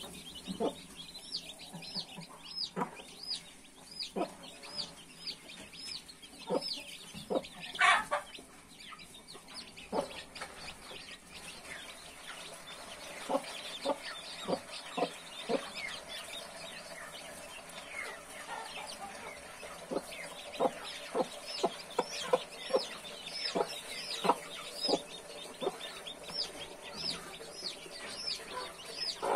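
Newborn chicks peeping over and over in high, repeated calls while a mother hen clucks in short, low notes; one louder, sharper sound stands out about eight seconds in.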